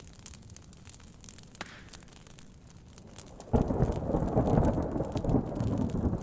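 Soft rain with the faint ticks and pops of a wood fire crackling. About three and a half seconds in, a sudden loud crack of thunder breaks in and rumbles deeply for nearly three seconds before easing.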